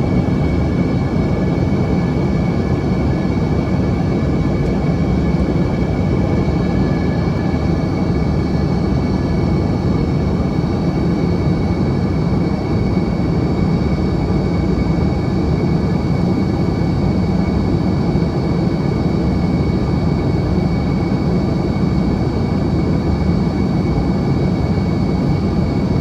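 Steady cabin noise of an Embraer ERJ-145 regional jet in cruise: a deep, even roar of airflow and its Rolls-Royce AE 3007 turbofans. Two steady high whines ride over the roar, and the higher one grows a little stronger about six seconds in.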